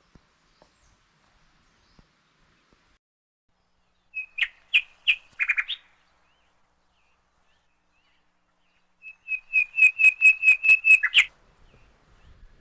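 A bird calling in two bursts of rapid, repeated high chirps, the second burst longer and ending on a sharp downward note.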